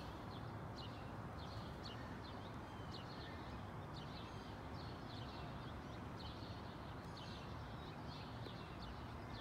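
Outdoor ambience: small birds chirping, short high chirps repeated irregularly about once a second, over a faint steady background hum.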